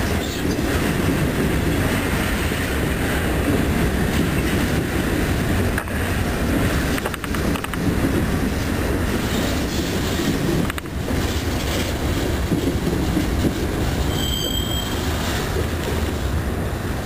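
Freight train of covered hopper cars rolling past, a steady rumble of steel wheels on the rails. A brief high tone sounds near the end.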